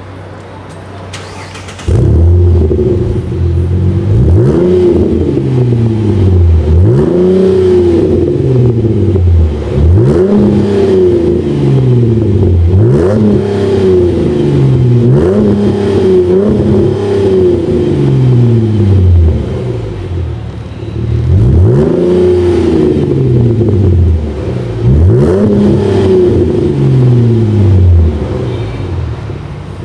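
Chrysler 300 Touring exhaust through an aftermarket stainless dual muffler: the engine idles briefly, then is revved again and again in quick blips, each climbing sharply and falling back toward idle.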